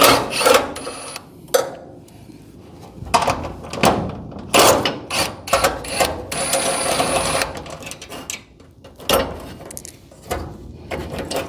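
Power driver with a socket extension whirring in several short runs and one longer run midway, backing out garage door hinge bolts, with clanks of metal and tools in between.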